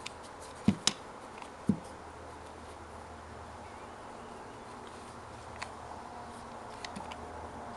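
Light clicks and knocks of small engine parts being handled, a few in the first two seconds and a couple more near the end, over a faint low steady hum.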